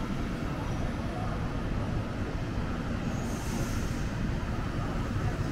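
A train running with a steady low rumble, and a short hiss about three seconds in.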